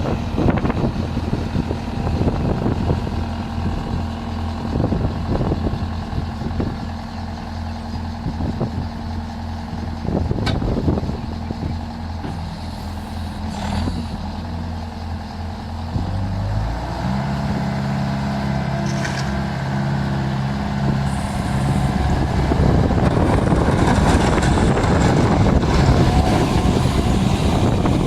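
Bobcat skid steer's diesel engine running steadily, with scattered clicks and knocks. About two-thirds of the way through, its pitch steps up as the revs rise, and near the end it grows louder and rougher.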